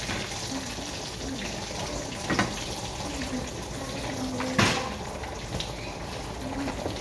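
Chicken wings sizzling as they fry in a skillet, a steady hiss, with a metal utensil clinking against the pan twice, the louder clink about four and a half seconds in.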